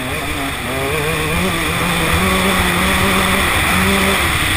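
Two-stroke enduro motorcycle engine running at high revs while riding, its pitch and loudness climbing about a second in, then holding with small rises and dips.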